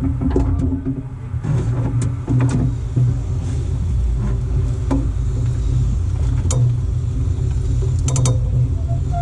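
Ford Focus Mk1 estate moving, with a steady low rumble and irregular sharp clicks, then a quick run of clicks near the end: the clicking of a worn CV axle joint.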